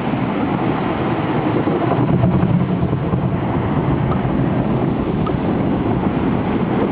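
Automatic car wash running outside the car, heard from inside the cabin as a loud, steady rushing noise.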